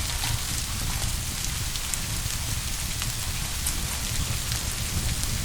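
Steady rain with scattered drop ticks over a low, constant rumble.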